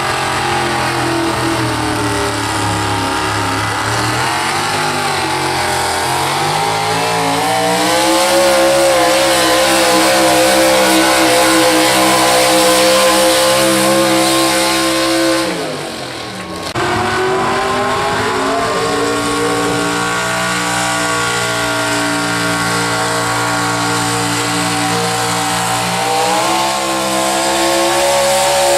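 Gasoline pulling truck's engine run hard and held at high revs. About halfway through, the revs drop sharply and then climb straight back up to full throttle.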